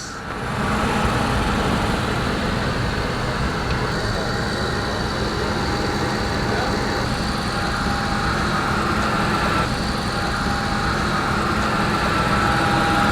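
Racing powerboat engines running steadily, a loud, even engine sound heavy in the low end.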